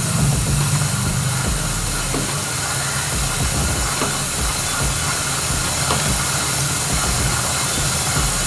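Aerosol chain wax lube sprayed in one long continuous hiss onto a motorcycle drive chain, laying down a coat of lube.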